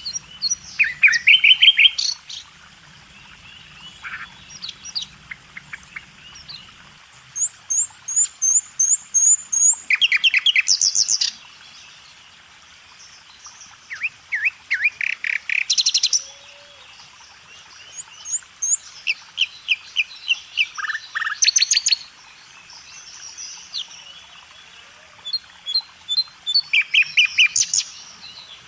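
Small birds chirping and singing in bouts of quick, repeated high notes, with short pauses between the bouts.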